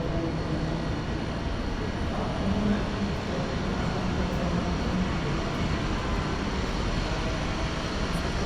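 Steady city street noise, with traffic running throughout.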